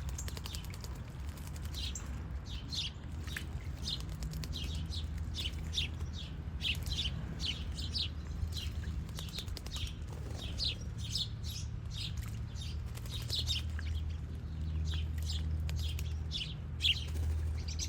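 Small songbirds chirping over and over, short quick chirps each dropping in pitch, several in every second, over a low steady rumble.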